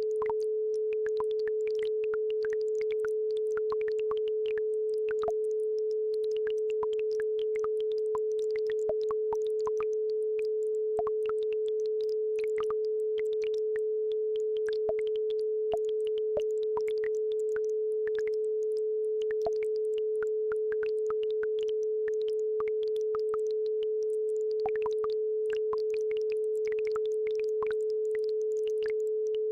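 A steady 432 Hz sine tone, held unbroken, with a babbling brook's light trickling and plinking water sounds faintly behind it.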